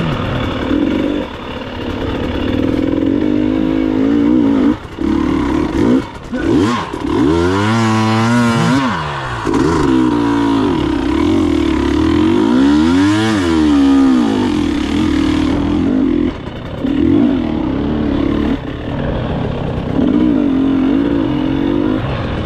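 Enduro motorcycle engine being ridden off-road, its revs rising and falling repeatedly as the throttle opens and closes, with two longer rev-ups and drops about a third and halfway through.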